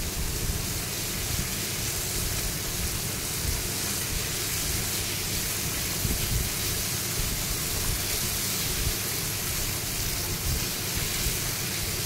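Tomato and spice masala sizzling in hot oil in a non-stick frying pan as it is stirred with a wooden spatula, a steady hiss. The masala is being roasted (bhuna) until well fried, just before water goes in for the gravy.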